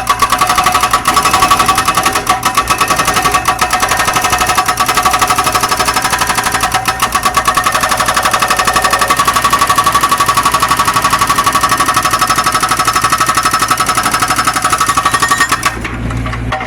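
Hydraulic breaker hammer on a Zoomlion excavator pounding in a rapid, steady stream of blows. It stops near the end, leaving the excavator's engine running.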